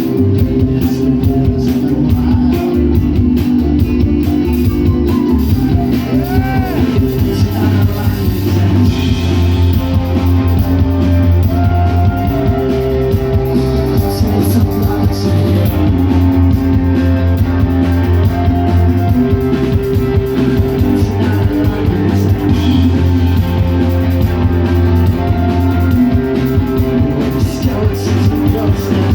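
Live rock band playing an instrumental passage: electric guitars and bass over a drum kit, with a guitar note bending briefly about six seconds in.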